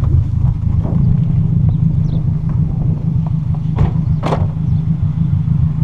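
VW Golf Mk3 engine running through an exhaust with no catalytic converter or intermediate muffler, only a sport rear muffler, giving a loud, steady low drone heard inside the car. Two brief clicks stand out near the middle.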